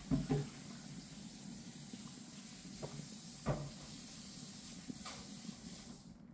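Steady hiss with a few soft, short knocks, the loudest near the start and about three and a half seconds in.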